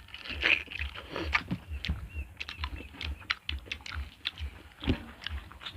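People chewing and eating food close to the microphone: quick irregular wet mouth clicks and smacks over a steady low chewing thud, about three a second.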